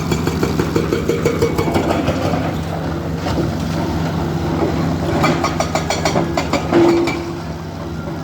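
Diesel engine of heavy construction machinery running steadily with a fast, even clatter. A higher steady tone comes and goes in the second half and is loudest near the end.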